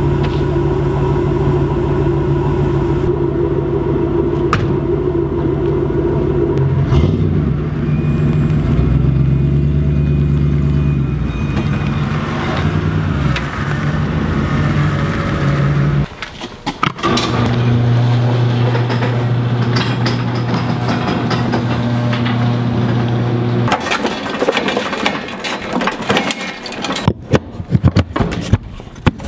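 A 1996 Ford F-250 pickup's engine running steadily, broken by a short gap around the middle. Near the end the engine sound gives way to irregular knocks and clatter.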